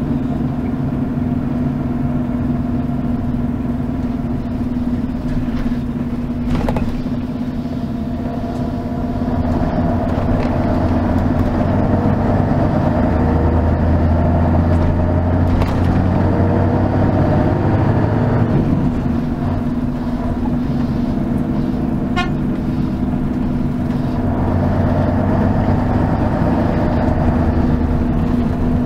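Mercedes-Benz O 403 SHD coach's V8 diesel engine, heard from inside the bus while it drives. It grows louder and deeper about a third of the way through, drops back a little past the middle, then builds again near the end.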